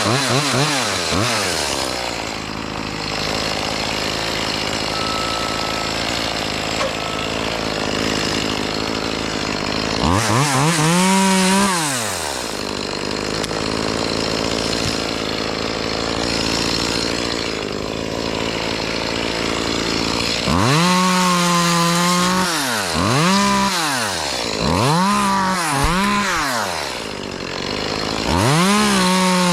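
Chainsaw running at full throttle while cutting tree limbs, with its engine pitch rising and falling as the throttle is revved up and let back, once partway through and four times in quick succession near the end.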